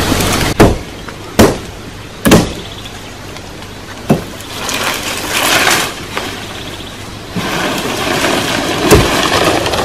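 A handful of hard, sharp knocks, struck at irregular intervals, typical of a tool striking wood. Rustling, hissing noise between the strikes swells up around the middle and again near the end.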